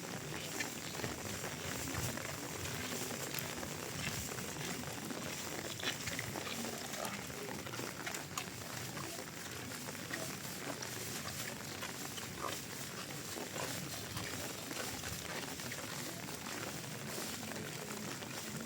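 Steady rain falling, with a constant hiss and scattered small drip ticks and patter.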